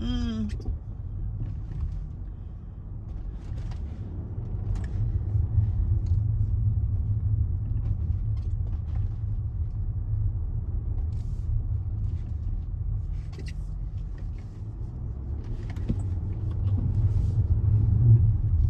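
Steady low road and engine rumble inside a Range Rover's cabin as it drives, with a few faint clicks now and then.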